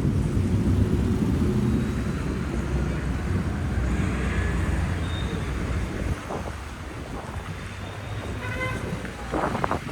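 Wind buffeting the microphone over city street traffic, a heavy low rumble that eases about six seconds in. Near the end a short pitched tone sounds.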